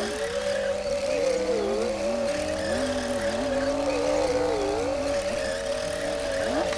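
Komatsu D60P bulldozer's diesel engine running steadily, its note dipping briefly and recovering a few times as the engine takes load pushing soil.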